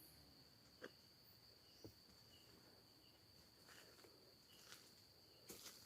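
Faint night insects: a steady high cricket trill, with a few soft clicks.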